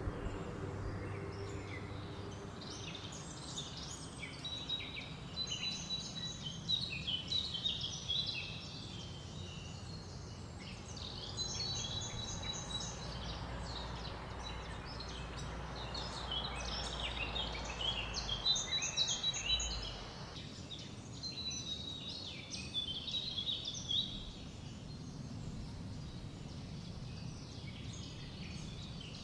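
Several songbirds singing and chirping, with repeated high twittering calls, over a steady rushing hiss of wind through leaves that drops away about two thirds of the way through.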